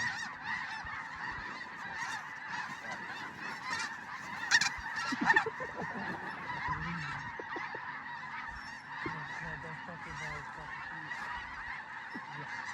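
A large flock of snow geese calling, a dense, continuous chorus of many overlapping honks. Two louder calls stand out about five seconds in.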